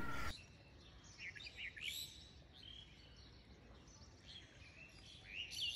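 Faint bird chirps: a few short calls that rise and fall in pitch, clustered about two seconds in and again near the end, over a low background hiss.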